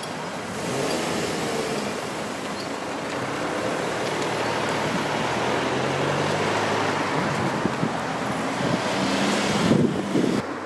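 A motor vehicle passing by, its engine and tyre noise swelling, peaking and falling away; the sound cuts off suddenly near the end.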